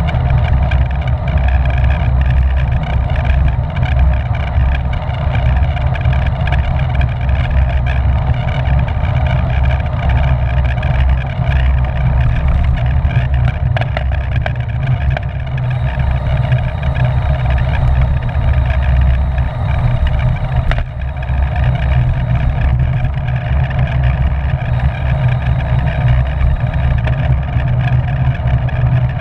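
Wind buffeting the microphone of a camera riding along on a racing bicycle during a criterium, with a steady higher hum over it.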